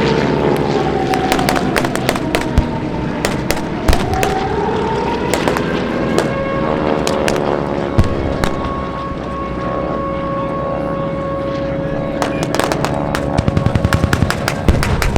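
Propeller warbirds pass overhead with their engine pitch falling and rising, amid a string of sharp pops and cracks from the show's pyrotechnic simulated gunfire. The pops come thick and fast near the end.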